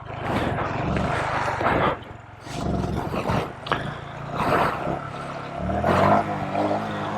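Mini bike engine revving up and down as it is ridden. It is loud in the first two seconds, eases off, then climbs again in pitch about six seconds in.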